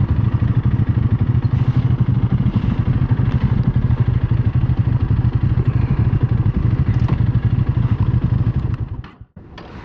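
Single-cylinder motorcycle engine running steadily at low speed, with an even, rapid exhaust pulse. It cuts off suddenly near the end.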